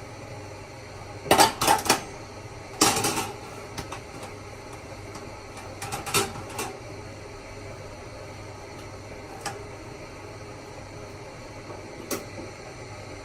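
Dishes and cutlery clattering in a few short bursts: twice within the first few seconds and again about six seconds in, then a couple of single clinks.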